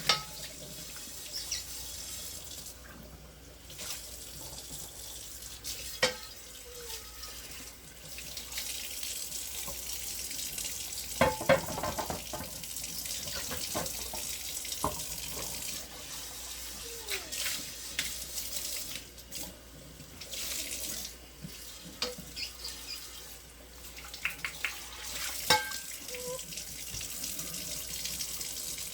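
Water running from a tap into a sink, with a few sharp knocks and clatters.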